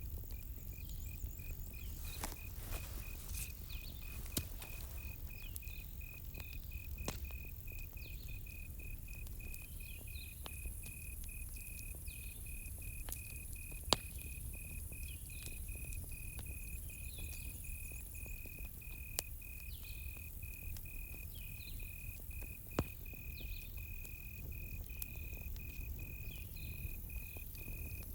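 Campfire crackling with scattered sharp pops, the loudest about halfway through, over a steady, rapidly pulsing cricket chirp. Faint higher chirps come and go.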